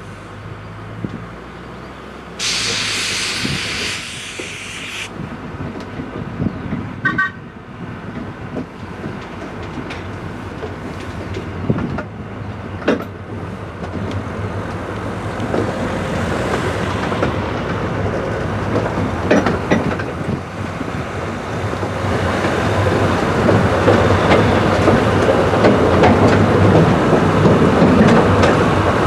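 Riding in a narrow-gauge train: the wheels rumble and clatter over the rail joints, growing louder through the clip as the train picks up speed. A loud hiss sounds for about two and a half seconds near the start.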